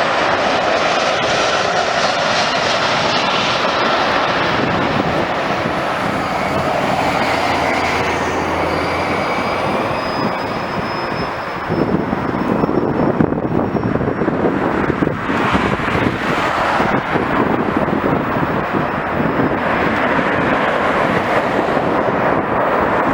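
Airliner engines running loudly, a steady roar with a faint high whine that rises slightly through the first half. About halfway through, the sound turns rougher and gustier.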